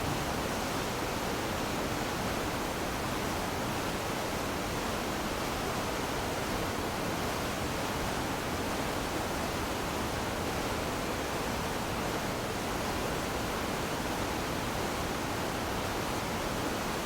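Steady, even rush of water falling from a high waterfall.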